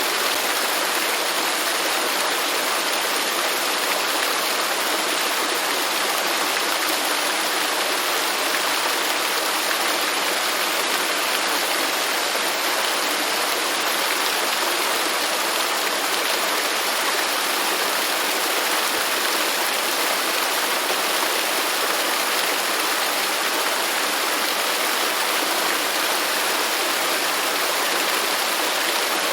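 Waterfall: falling water rushing steadily, a constant even hiss without breaks or changes.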